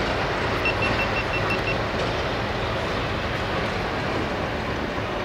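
Train running through a railway station, a steady noise of engine and wheels. About a second in comes a quick run of short high beeps, about seven in a second.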